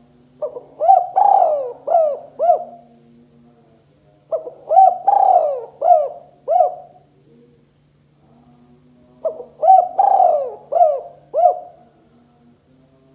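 Spotted dove (tekukur) cooing: three phrases a few seconds apart, each a short note, a longer drawn-out coo and a few quick closing notes.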